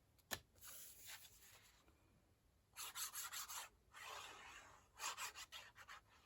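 Faint rubbing and brushing of paper card stock being handled, in several short patches, with a small click about a third of a second in.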